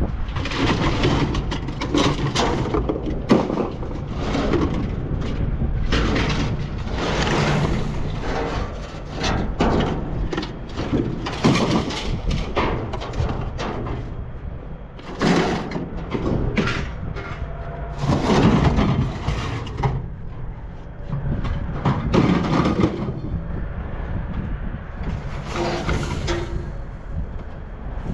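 Vehicle running with a steady low rumble, broken by irregular, loud, noisy surges lasting a second or two.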